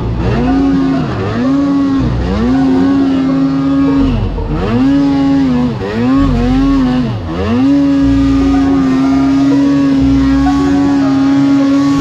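Snowmobile engine revving in repeated throttle bursts, rising to the same high pitch and dropping back about six times, then held at steady high revs from about two-thirds of the way in.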